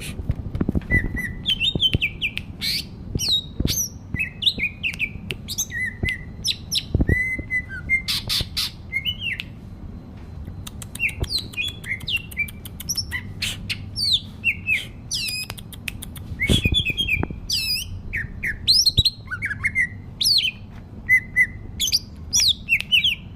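A small bird singing and chirping: a busy, varied run of short whistled notes sweeping up and down, mixed with a few squawks and sharp clicks.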